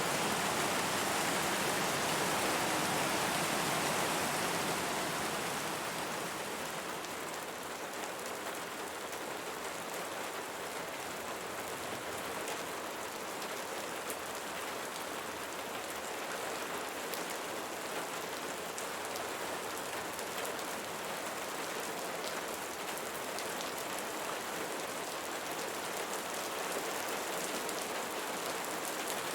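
Steady rain falling, a dense hiss sprinkled with fine drop ticks. It eases slightly about five seconds in, then holds even.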